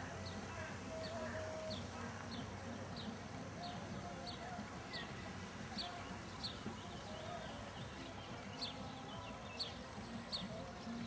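A bird calling over and over: short, high notes sliding downward, about two a second, with a few short lower calls in the background.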